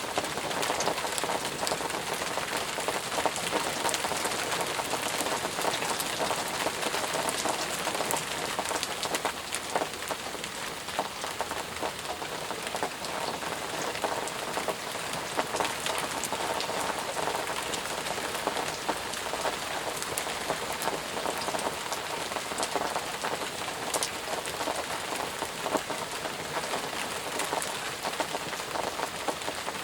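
Steady heavy rain falling, a dense hiss with many individual drops pattering on surfaces.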